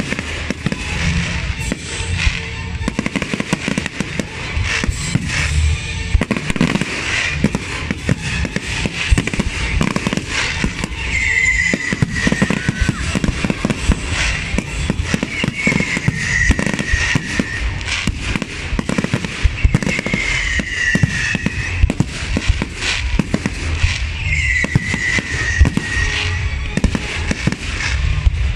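Fireworks display: a dense, unbroken run of sharp bangs and crackling bursts, with four falling whistling tones spread through it.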